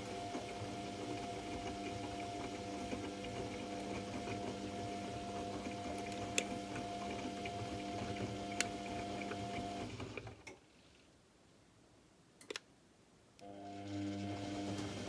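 AEG Electrolux Lavamat L74810 washing machine's drum motor running with a steady hum, stopping about ten seconds in, a single click during the pause, then starting up again near the end: the drum pausing between tumbling turns of the wash.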